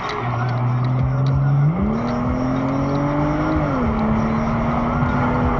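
A car engine running over steady road noise. Its pitch rises sharply about a third of the way in, holds, then falls back a little after two more seconds.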